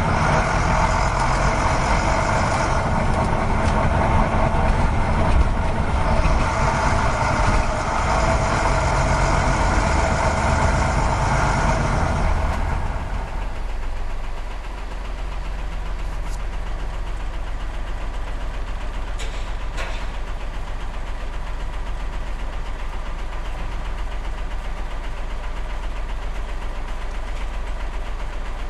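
Truck engine running, busier and louder for about the first thirteen seconds, then dropping to a steady low idle.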